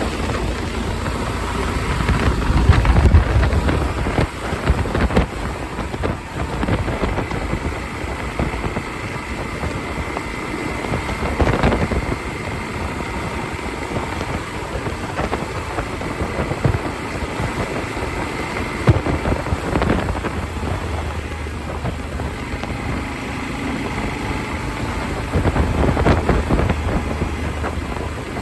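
Wind buffeting a helmet-mounted phone's microphone on a moving motorcycle, a steady rumble with louder gusts a few seconds in and again near the end, over vehicle running noise.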